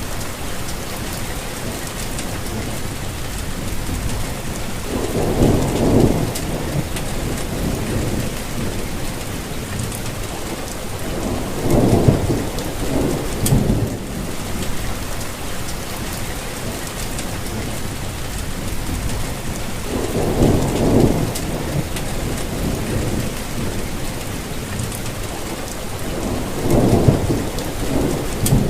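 Steady rainfall, an even hiss throughout, with a low rumble swelling and fading four times, about every seven seconds.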